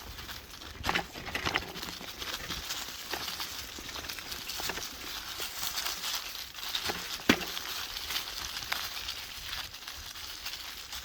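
Dry autumn leaf litter rustling and crackling, with irregular sharp snaps throughout; the loudest snap comes about seven seconds in.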